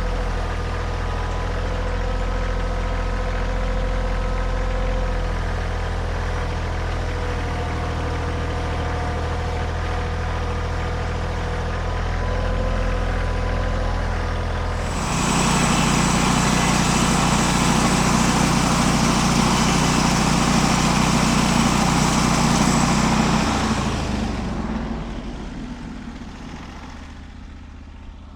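An engine runs steadily. About halfway through it turns much louder and rougher for about eight seconds, then dies away near the end.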